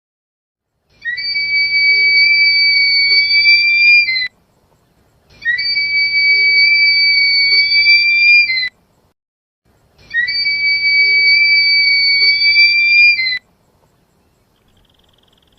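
A bird's long, steady whistled note, held about three seconds and given three times with short pauses between, each note sliding up briefly at the start.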